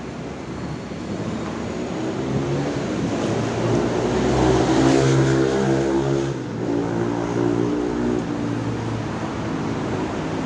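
A motor vehicle's engine passing close by in street traffic. Its hum grows louder to a peak about halfway, then drops away over steady traffic noise.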